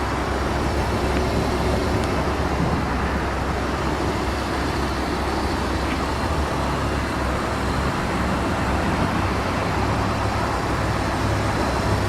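Lamborghini Gallardo Superleggera's 5.2-litre V10 idling steadily, a low even drone with no revving.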